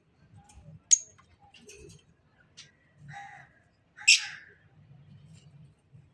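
Caged birds calling in short, scattered calls, with a sharp click about a second in and a loud, harsh call about four seconds in.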